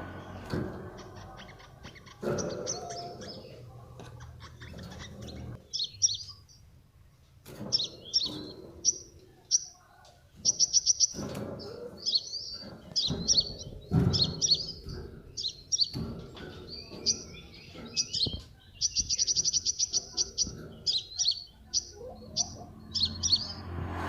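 Several small cage birds chirping in a mini aviary: many short, high chirps and a couple of fast rattling chirp trains, with occasional low knocks.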